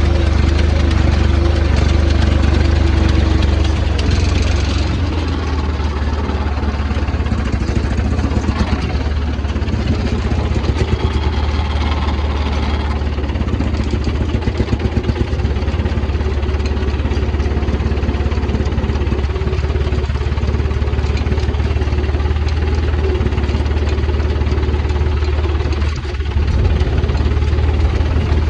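Tractor engine running steadily under load while it pulls a fertilizer applicator, a constant low hum with some rattling from the machinery.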